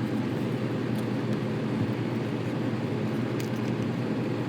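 Portable gas inverter generator running steadily with an even hum, with a few faint ticks over it.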